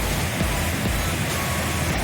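Steady roar of a waterfall: an even rushing of falling water with a deep rumble underneath.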